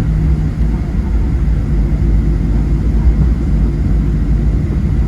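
Steady low rumble inside the passenger cabin of a Boeing 737-700 on the ground before takeoff, its CFM56-7B jet engines running at low power.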